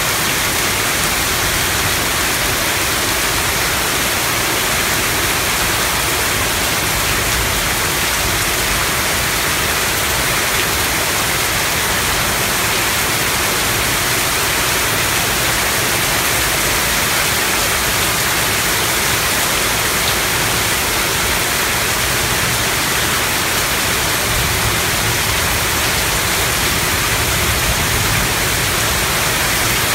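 Heavy rain pouring down steadily, a dense, even rush of noise.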